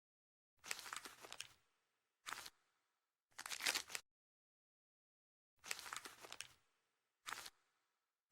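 Five short bursts of crunching noise, each under a second, separated by dead silence: an edited-in sound effect.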